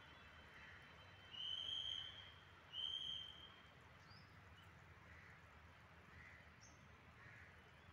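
A bird calling: two long whistled notes about a second apart, with a few faint short chirps later, over low background hiss.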